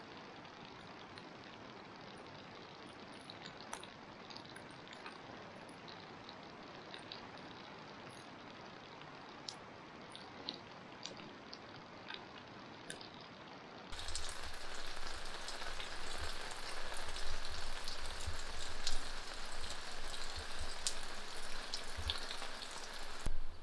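Rain falling steadily, with scattered drops ticking close by. About 14 seconds in it jumps abruptly to louder, nearer rain, with many more drop hits and low thumps.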